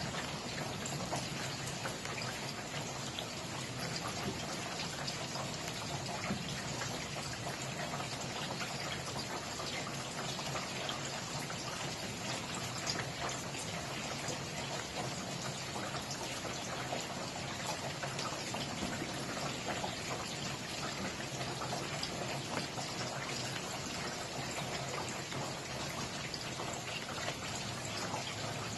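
Steady rainfall, a continuous hiss of falling rain with many fine individual drop ticks.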